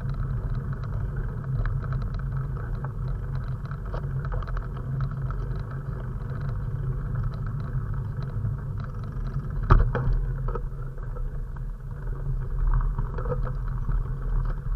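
Steady low rumble of wind and road noise on a camera mounted on a moving bike, with one sharp knock about ten seconds in.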